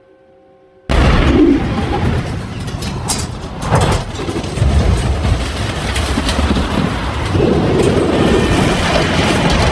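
A loud, dense rumbling roar cuts in abruptly about a second in, with a few sharp knocks in it.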